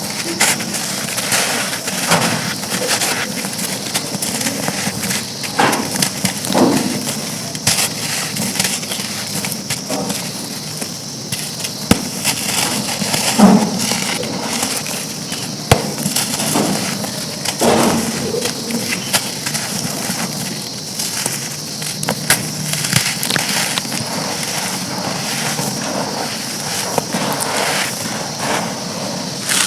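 Big dry chunks of charcoal being crumbled and crushed: a dense, steady crackling and crunching, with several louder crunches.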